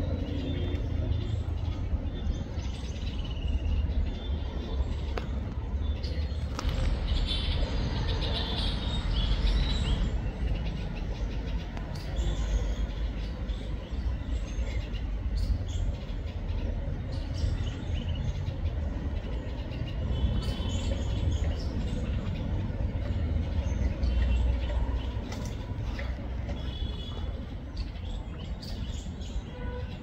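Birds chirping in short phrases several times, the longest and loudest run about seven to ten seconds in, over a steady low rumble.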